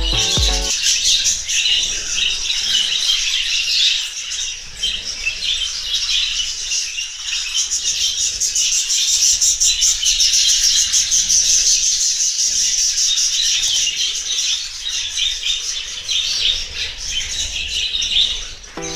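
A flock of budgerigars chattering continuously, a dense mix of rapid chirps and warbles from many birds at once.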